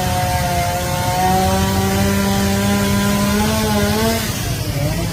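A motor or engine drone holding a steady pitch that rises briefly about four seconds in and then fades, over a constant background hiss.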